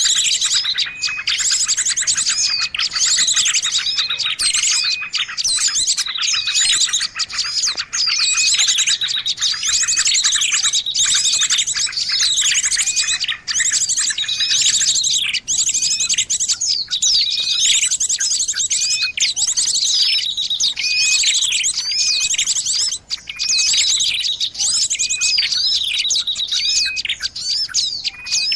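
Bird-lure recording of many small songbirds calling together: fast high trills layered over repeated short downward-sweeping chirps, with a short note that recurs about once a second.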